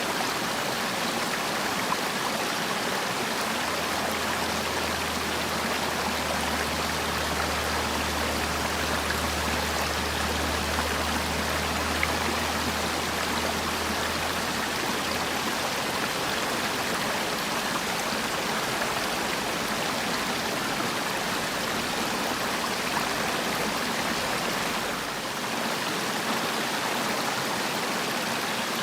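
Mountain valley stream flowing steadily. A faint low hum runs underneath for about ten seconds.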